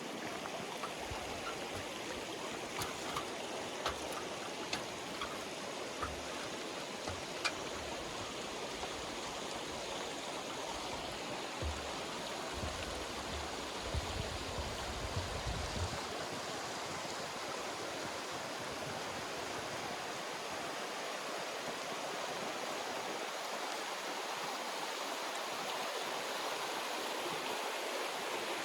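Steady rushing of a glacial river through a rocky canyon. Footsteps on loose river stones sound over the first half, with a few sharp clacks of stone in the first several seconds and dull thuds up to about halfway, then only the water.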